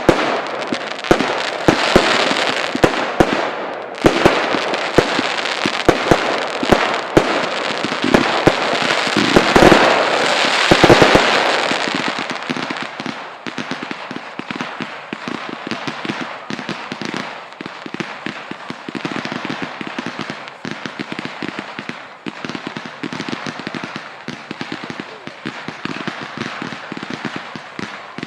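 Fireworks display: a rapid mix of sharp bangs and crackling, loudest about eight to eleven seconds in, then easing into a quieter, steady crackle of many small pops.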